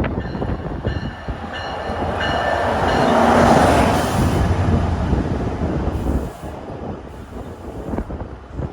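Train passing on the line. The rush of wheel noise builds to its loudest about three to four seconds in, with a steady high wheel squeal, then fades.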